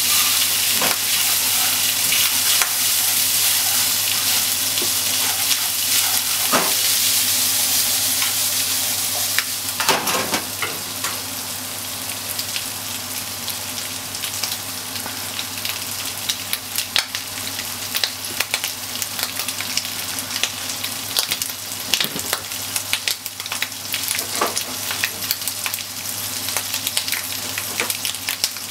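Bacon and sliced onion sizzling in a non-stick frying pan. They are stirred for the first ten seconds or so, then left to fry, sizzling a little more quietly with scattered pops.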